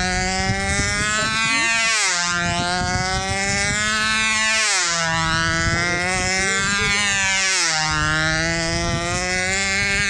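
Mamiya 29 model engine of a control-line speed plane running flat out as the plane circles on its line, its pitch rising and falling once per lap, about every three seconds.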